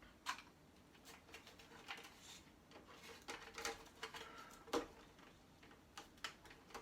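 Faint, scattered small clicks and light rattles of electronic scrap being handled and taken apart by hand, parts and connectors being worked loose. A sharper click comes just after the start and another about three-quarters of the way through.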